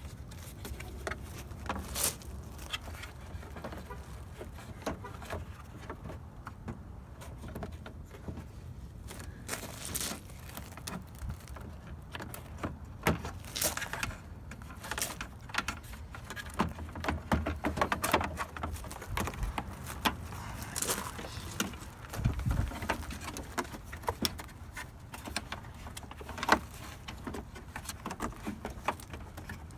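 Irregular clicks, taps and light rattles of plastic car trim and clips being handled and pressed into place, scattered throughout with a few louder knocks.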